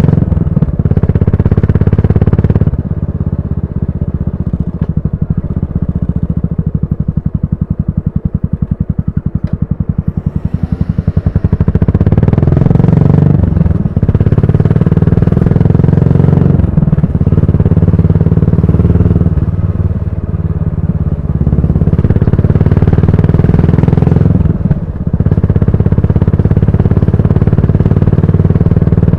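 Yamaha SR400's air-cooled single-cylinder engine breathing through a GOODS tapered-cone muffler while riding. From about 3 to 11 seconds in it runs quieter, its separate firing pulses distinct. It then pulls strongly again, the sound cutting briefly four times as gears change.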